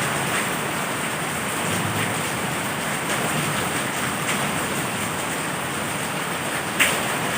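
Heavy rain falling steadily, with scattered drops ticking on a surface and one sharper drop hit near the end.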